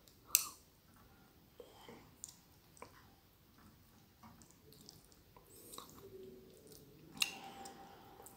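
Close-miked chewing and wet mouth sounds of a person eating stir-fried glass noodles and goat meat, with scattered small clicks. A sharp click comes just after the start, and another about seven seconds in is followed by a brief ring, like wooden chopsticks striking the metal tray.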